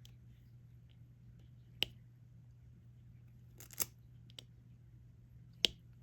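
A few sharp clicks of a diamond-painting pen picking up resin drills and pressing them onto the sticky canvas, a couple of seconds apart, over a faint steady low hum.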